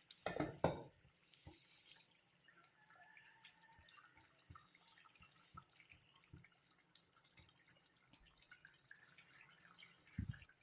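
Thick curry gravy simmering in a pan, with faint, scattered small plops and bubbles. A couple of soft knocks sound about half a second in, and another near the end.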